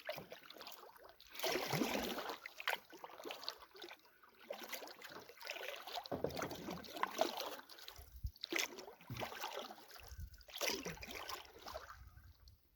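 Canoe paddle strokes: the blade dipping and pulling through the water with splashing and dripping, a stroke every two seconds or so. Some low wind rumble on the microphone.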